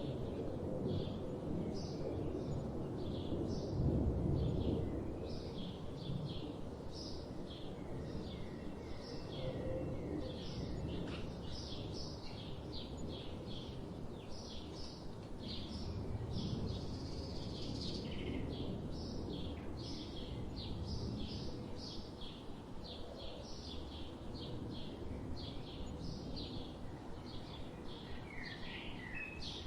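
Birds chirping continuously in a forest, short high calls coming two or three a second, over a steady low rumble of background noise that swells briefly about four seconds in.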